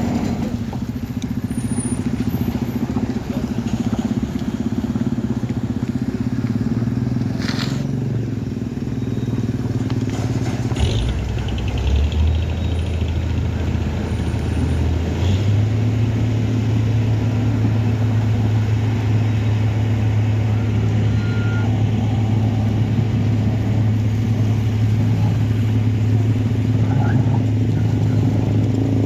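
A vehicle engine runs steadily with a low hum, its note stepping up about eleven seconds in and again about four seconds later.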